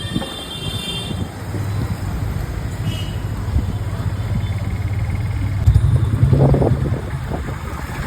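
Road traffic heard from a moving bike: a steady low engine hum that grows louder and rougher about six seconds in, with a brief high ringing tone in the first second.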